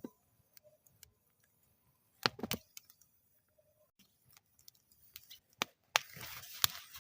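Wood fire in a metal fire bowl crackling, with irregular sharp pops: a quick cluster about two seconds in, a few single louder pops later, and a soft hissing flare near the end.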